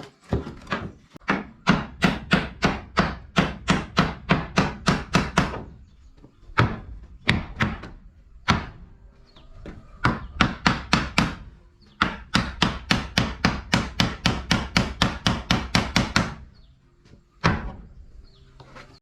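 A hammer striking wood in quick runs of blows, about three to four a second, with short pauses between runs and a single last blow near the end.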